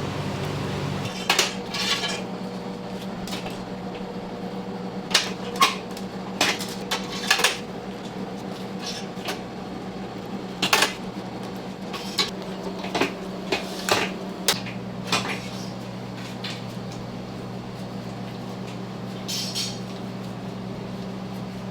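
Kitchen utensils and dishes clinking and knocking at irregular intervals, some twenty sharp strikes, over a steady low hum.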